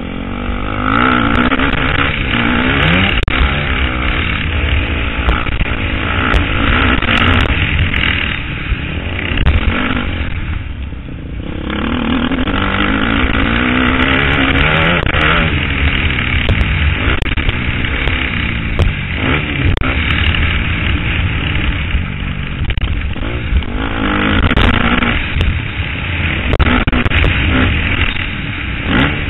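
KTM 250 SXF four-stroke single-cylinder motocross engine revving up and down as the bike is ridden around a track, with wind rumble on the helmet-mounted microphone. The engine note drops away briefly about ten seconds in before it climbs again.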